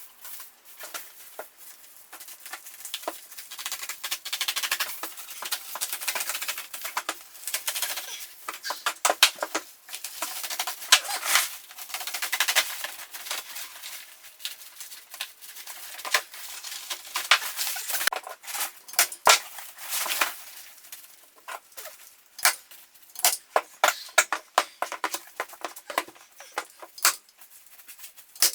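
Hand work at close range: an irregular run of clicks, taps and knocks, with stretches of scraping and rustling, busiest in the middle of the stretch.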